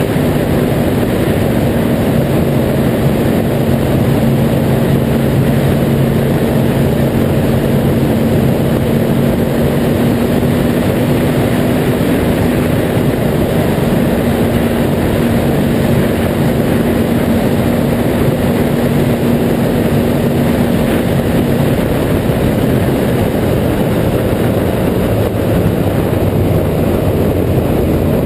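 Yamaha R1's inline-four engine running at a steady cruise on the move, a held engine note with no big revs, over loud wind rush.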